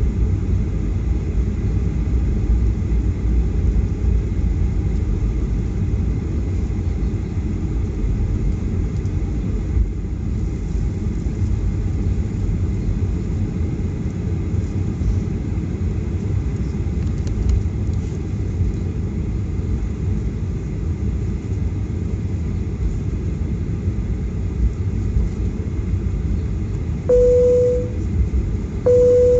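Steady low rumble of cabin noise inside a Boeing 737-800 on the ground before takeoff. Near the end two short, steady beeps sound about a second apart.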